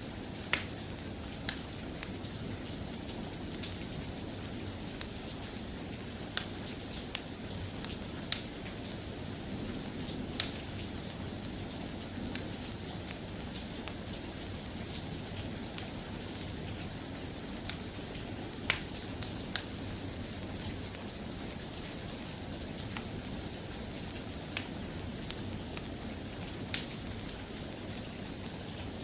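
Steady, soft rain ambience with scattered sharp ticks every second or two.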